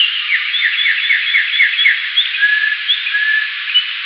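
Bird chirps, slowed down and lowered in pitch, heard over a steady band-pass-filtered hiss. A quick run of about six short falling notes comes first, then two long level whistles lower down, with scattered short higher chirps near the end.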